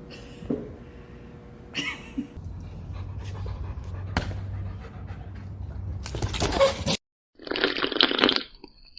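A dog panting over a steady low hum. About six seconds in comes a loud noisy rush, then a short dead gap and another loud noisy burst.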